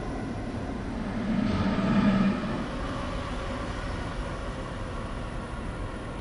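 A miniature ride-on electric train running, a steady noise that swells briefly with a humming tone about a second and a half in.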